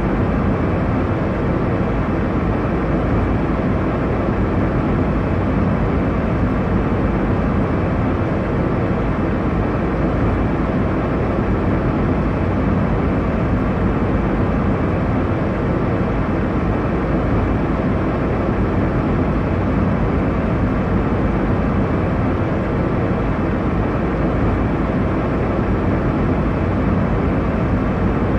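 Airliner cabin noise in cruise: a steady, even rush of engine and airflow noise, strongest in the low and middle range, with a faint low hum.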